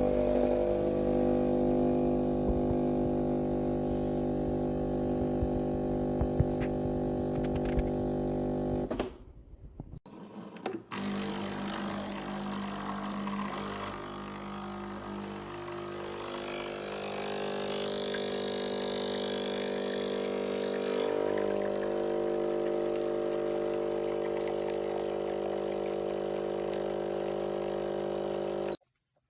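Sage Barista Express espresso machine running with a steady mechanical hum. The hum breaks off briefly after about nine seconds, starts again, and stops suddenly near the end; a hiss joins it for a few seconds in the middle.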